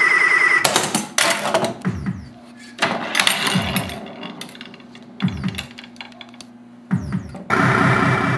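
Williams Gorgar pinball machine in play, its electronic sound board firing a string of synthesized effects: sudden noise bursts, a high steady tone in the first half second, and several low tones that drop in pitch, one every second or two.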